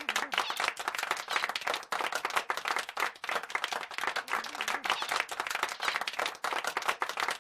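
Applause: many hands clapping in a steady, dense patter.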